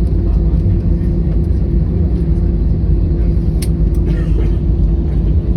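Steady low rumble of a jet airliner heard from inside the cabin after touchdown, with a constant hum and one sharp click about three and a half seconds in.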